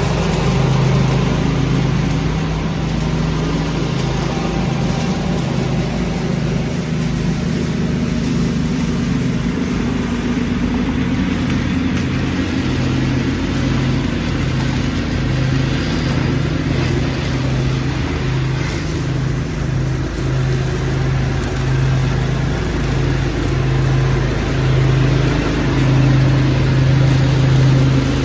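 Lawn tractor engine running steadily, its low note wavering slightly, under the steady rushing of a leaf vacuum's blower.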